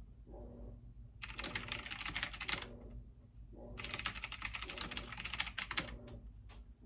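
Computer keyboard typing in two quick runs of keystrokes, the second a little longer, over a steady low hum.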